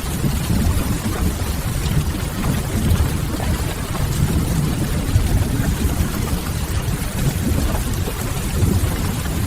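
Steady rain noise over a deep, even low rumble, with a wood fire crackling softly.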